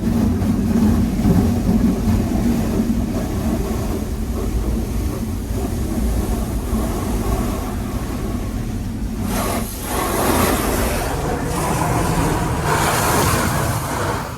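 High-pressure water jets from a D&S Quicksilver touch-free car wash's moving wand blasting against the car, heard from inside the car over the machine's steady low drone. The hissing spray swells louder twice in the second half as the jets pass close.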